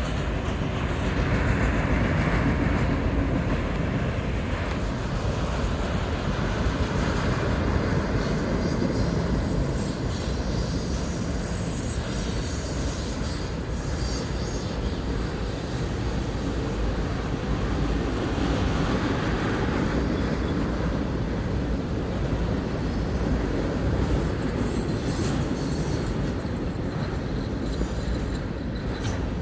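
Train passing on the tracks, its wheels rolling with a steady rumble, with a few brief high-pitched wheel squeals.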